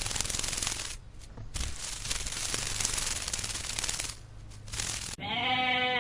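Dense, rapid crackling clatter of many tiny clicks that breaks off twice, then a little after five seconds a loud, long bleat begins.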